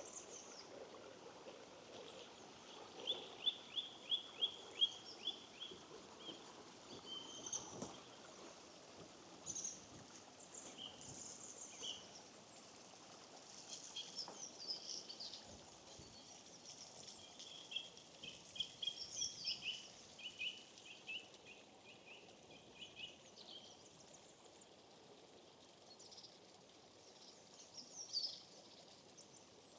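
Small birds singing and calling, with runs of quick repeated high notes, over the faint steady rush of a shallow stream.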